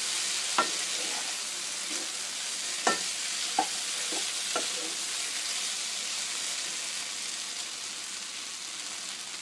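Pumpkin pieces sizzling in a non-stick pan as they are stirred with a wooden spatula: a steady frying hiss, with the spatula knocking against the pan about four times in the first half.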